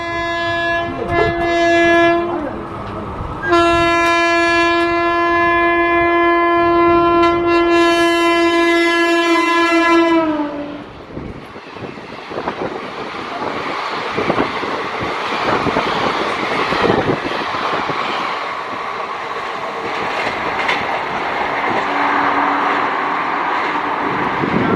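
Express train horn: a blast of about two seconds, then a long blast of about seven seconds whose pitch drops as the locomotive passes. After it come the loud rumble and clatter of the coaches going by.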